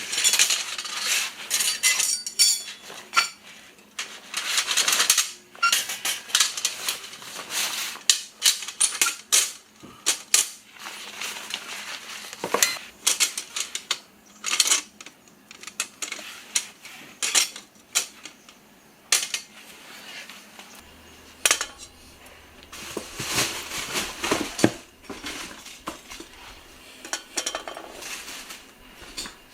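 Metal objects being handled: an irregular run of clinks, clatters and knocks, with short stretches of scraping or rustling between them.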